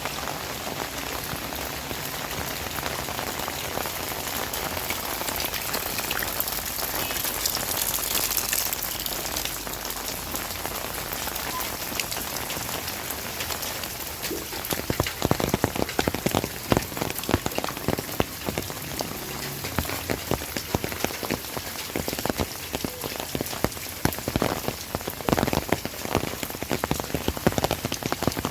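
Heavy rain falling steadily. About halfway through, loud, uneven taps of large drops hitting a nearby surface join the steady hiss.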